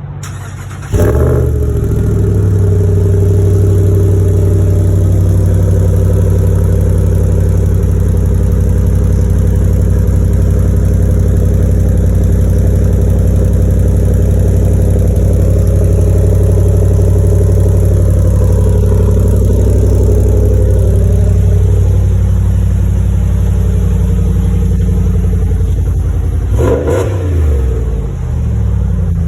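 2019 Ram 1500's 5.7 L Hemi V8 cold-starting with its mid muffler deleted, catching about a second in and settling into a steady idle. There is a brief change in the engine note near the end. Its rasp is one the owner says sounds like an exhaust leak, which he puts down to the weep holes in the rear resonators that are still fitted.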